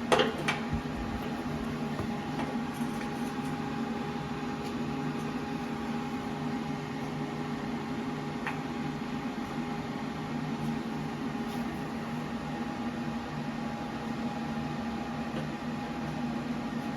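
A steady machine hum, with a sharp knock at the start and a few faint clicks later on.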